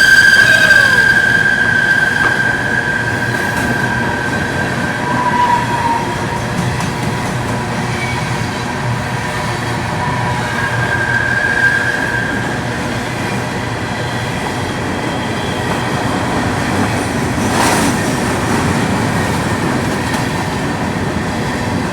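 Train rolling past on the rails with a continuous rumble, its wheels squealing in a high whine that is loudest at first, fades after a few seconds and comes back briefly near the middle.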